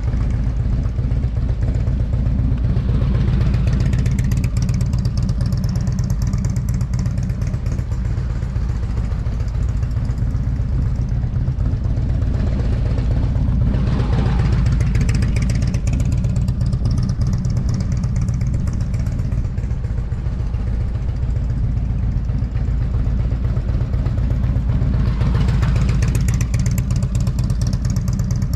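Motorcycle engine running steadily, swelling briefly and brightening three times: about three seconds in, midway, and near the end.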